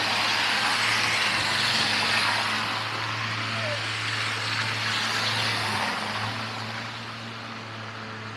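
Road traffic: a passing car's tyre noise, louder at first and fading away over the last few seconds, over a steady low hum.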